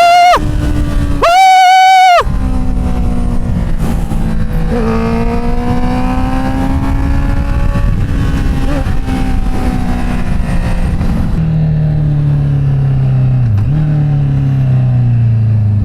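Inline-four engine revved hard twice, the second rev held high for about a second, then running steadily under way with its pitch slowly falling. Near the end the pitch dips sharply and recovers, then falls again as it slows.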